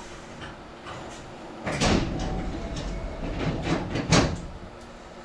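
Hankyu 6300-series train at a station stop: two loud bursts of compressed-air hiss, one about two seconds in and a sharper one about four seconds in, over the low hum of the car.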